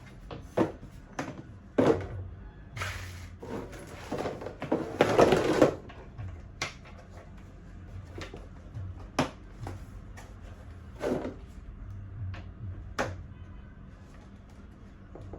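Plastic and metal parts of a baby high chair being handled and fitted together: scattered clicks and knocks, with a longer scraping stretch about four to six seconds in.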